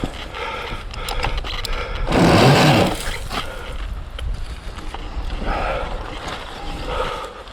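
Surron Ultra Bee electric dirt bike riding rough forest trail: a faint electric motor whine that comes and goes with the throttle, with clicks and knocks from the chassis over the ground. A loud rush about two seconds in is the loudest moment.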